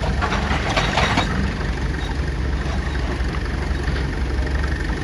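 Heavy diesel machinery engine running steadily at a low drone, with a burst of gritty rattling in the first second or so.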